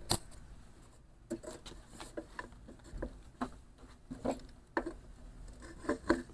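Light, irregular clicks and taps of metal parts being handled while the lawnmower's handlebars are fitted, about a dozen in all, starting with a sharper click.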